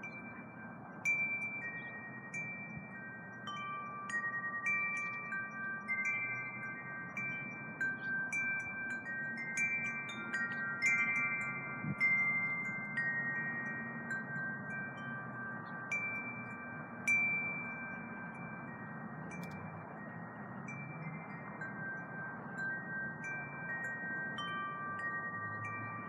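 Wind chimes struck irregularly by the wind, several clear tones ringing on and overlapping, with the loudest strikes about a second in and twice more later. A low wind rumble runs underneath.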